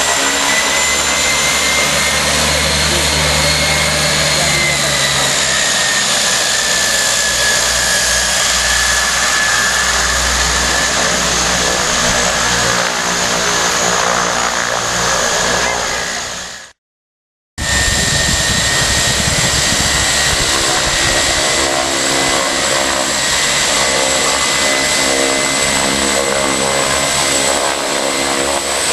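Aircraft engines running steadily, with a high turbine whine over a low drone. The sound cuts out briefly past the middle, then resumes.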